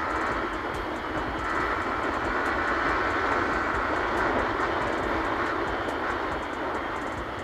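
Yamaha R15 V3's single-cylinder engine running steadily while under way, mixed with road and wind noise.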